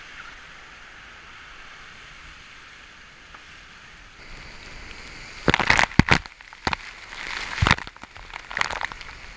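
Steady hiss of wind and rushing seawater aboard a racing yacht. About five and a half seconds in, several loud crashes follow in quick succession as spray and breaking waves slap across the deck.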